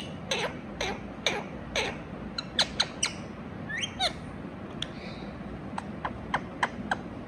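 Indian ringneck parakeet giving short, sharp chirping calls in quick runs, several a second, with a longer wavering call about four seconds in.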